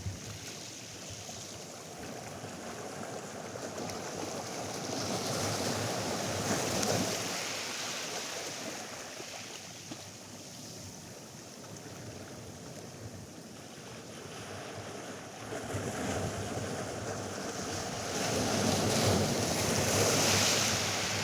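Atlantic surf washing onto a sandy beach, with wind. The wash swells about six seconds in, eases off, then builds again over the last five seconds.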